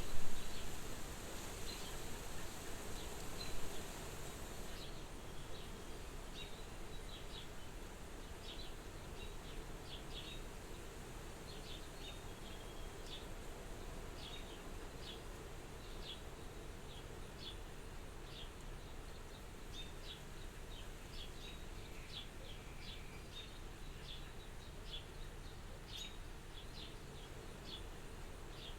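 Soft wind, a steady hiss that is louder in the first second and eases about five seconds in, with small birds chirping in short, high notes throughout.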